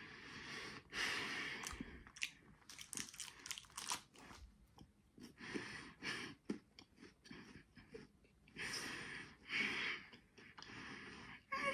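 Someone chewing a peach Kit Kat: crisp wafer crunches in several irregular bursts, with quieter gaps between.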